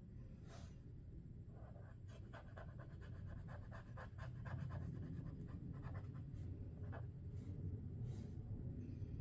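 Sharpie Creative Marker tip scratching across the drawing surface: a quick run of short strokes, several a second, for about three seconds, then a few separate single strokes.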